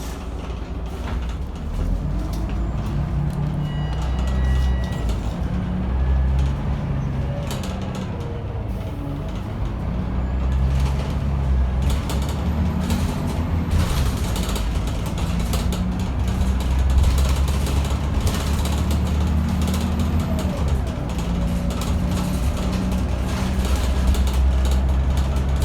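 Scania L94UB city bus's diesel engine heard from inside the cabin, running under load as the bus drives, its note rising and dropping several times as it speeds up and changes gear. Low road rumble and frequent short rattles from the body and fittings run throughout.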